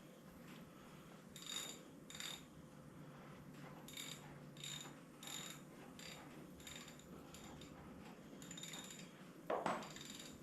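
Socket ratchet clicking in short strokes, about one or two a second, as a freshly loosened cylinder head bolt on a Ford 8N engine is backed out. A louder metallic knock comes near the end.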